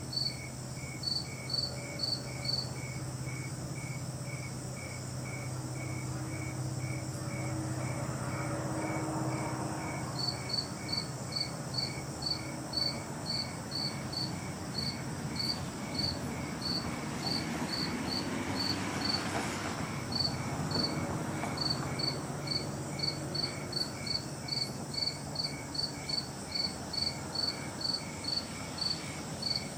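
Insects chirping in a steady, even rhythm of about two chirps a second, two voices at different pitches, over a low steady hum. A broad swell of noise rises and fades about two-thirds of the way through.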